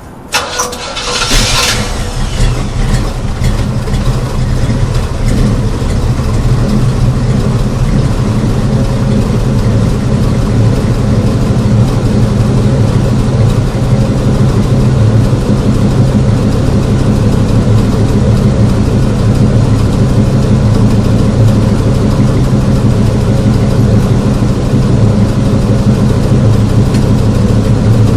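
1976 Chevrolet Monte Carlo's 350 small-block V8, breathing through full dual exhaust with two Flowmaster 40 series mufflers, starts up in the first second or two. It then idles steadily.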